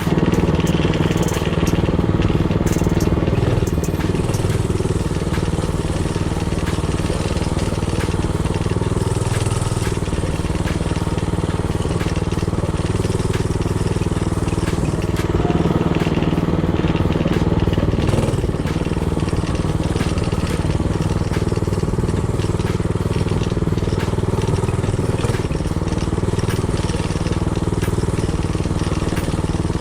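Mini-bike's Predator 224cc single-cylinder four-stroke engine running steadily while riding, with small rises and falls in engine speed.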